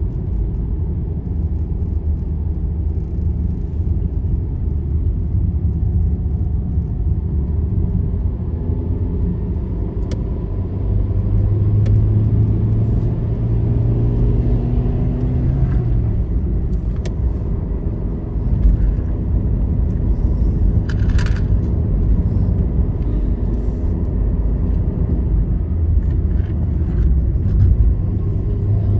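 Steady low rumble of a vehicle travelling on a highway: engine drone and tyre noise, with the engine note growing stronger from about eleven to sixteen seconds in. A few faint clicks and rattles are scattered through it.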